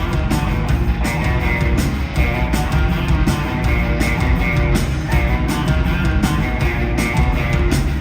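Live punk rock band playing loud: electric guitars over a driving drum beat, with no singing in this stretch.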